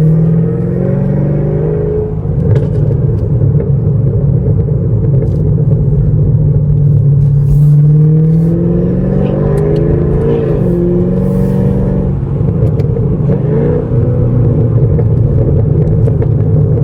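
Straight-piped 2017 Chevrolet Camaro SS's 6.2-litre V8 exhaust, heard from the cabin under acceleration: the engine note climbs and falls back a couple of times as the car pulls through the gears, with sharp pops and crackles from the open exhaust.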